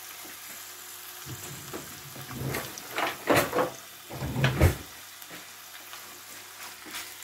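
Raw lamb pieces sizzling as they fry on a bed of onions in a hot pan, a steady frying hiss. A few louder rustles and knocks come between about one and five seconds in.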